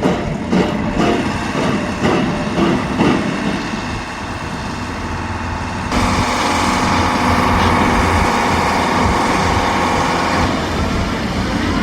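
Motor vehicle engine running, with a steadier, louder engine sound coming in about six seconds in.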